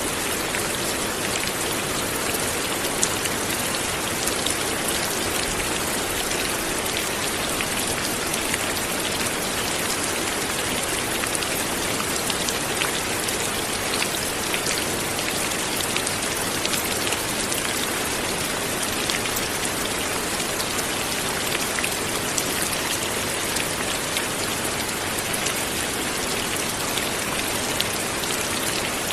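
Light rain falling steadily, a constant hiss with many small drop ticks on a surface.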